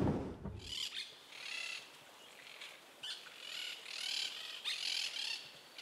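Birds calling outdoors: a string of short, high-pitched calls, one every half second to a second.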